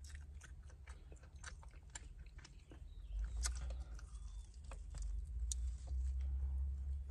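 Biting into and chewing crispy fried chicken, with crackly crunches and wet mouth clicks, over a low rumble that grows louder about halfway through.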